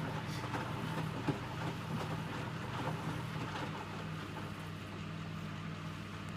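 Electrolux W455H commercial washing machine running mid-programme: a steady motor hum with a faint wash of noise over it, the higher part of the hum dropping away about four seconds in.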